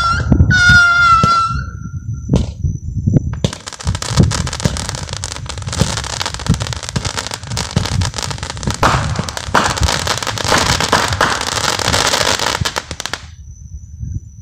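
Consumer firework cake firing: a whistling shot dies away in the first second or so, then from about three seconds in comes a long dense barrage of crackling breaks and low thumps, which stops abruptly near the end.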